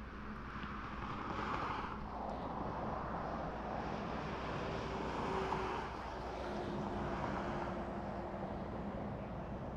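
Black Mesa & Lake Powell electric coal train running past: a steady rumble and rush of the train, with a low steady hum, swelling about a second in.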